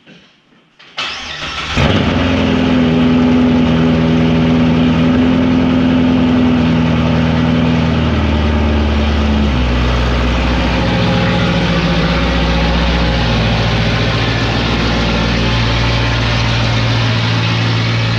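C7 Corvette's V8 cranking and firing about a second in with a loud flare, then settling into a steady, loud idle. The engine note steps lower about halfway through, and the car backs out of the garage.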